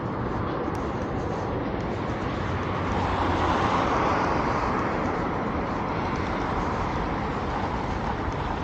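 Street traffic: a steady road hum, with a vehicle going past that swells loudest about three to five seconds in.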